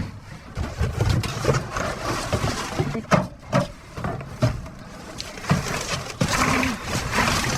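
Rummaging through debris in a dumpster: irregular knocks and clatters of items being moved over a steady rustling.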